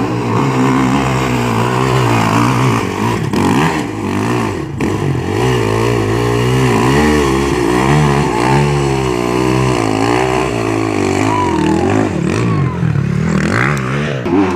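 Dirt bike engine running under changing throttle, its pitch rising and falling over and over as it revs up and eases off.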